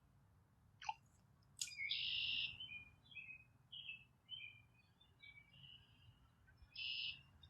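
A songbird calling: a loud buzzy note, then a string of short chirps, then another buzzy note near the end. Two sharp clicks come before the first buzzy note.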